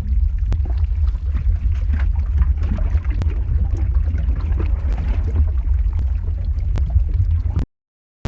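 Lava flow ambience: a steady deep rumble with scattered crackles and pops throughout. The sound cuts out suddenly to silence for about half a second near the end.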